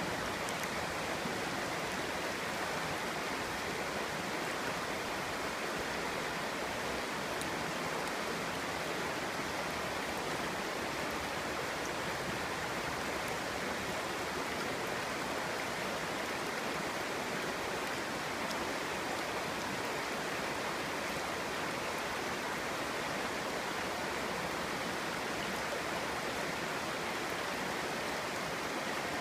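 Clear stream flowing over rocks, a steady babbling rush of water with faint splashes and droplet ticks.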